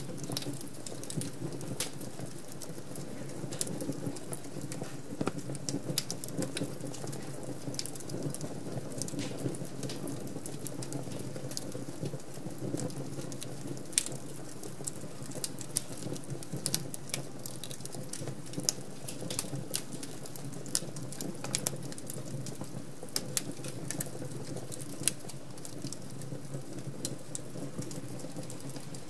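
Wood fire crackling in a fireplace: a steady low flutter of flames with frequent sharp, irregular pops and snaps from the burning logs.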